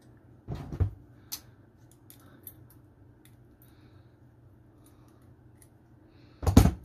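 Small metal parts being handled: scattered light clicks and taps, with a louder clunk about half a second in and another near the end.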